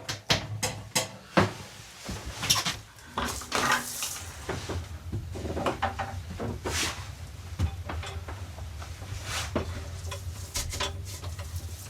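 Pots, pans and utensils being handled: a string of irregular clinks and knocks, some ringing briefly. A low steady rumble comes in about four seconds in.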